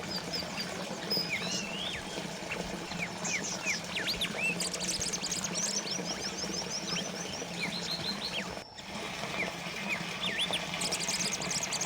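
Water trickling and splashing steadily from a small fountain, with small birds chirping over it in quick runs of short high notes and curving whistles. The sound drops out for an instant about two-thirds of the way through.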